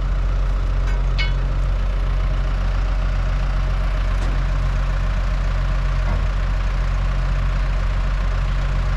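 Farm loader's engine running steadily at idle, with a brief high chirp about a second in.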